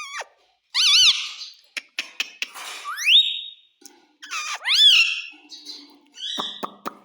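Pet parrot calling: a series of squeaky calls and whistled notes that rise or arch up and down in pitch, with a few sharp clicks between them.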